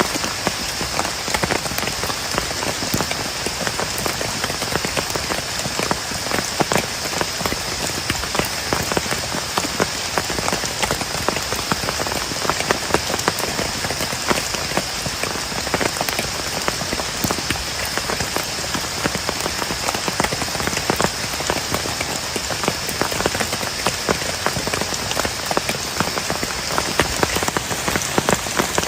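Heavy rain falling on a plastic tarp shelter: a dense steady hiss with many sharp individual drop strikes. A thin steady high tone runs underneath and stops shortly before the end.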